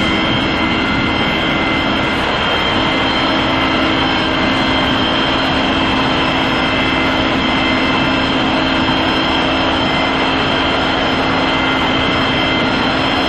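Large machinery running steadily: a loud, even mechanical noise with a low hum and several held high whines, unchanging throughout.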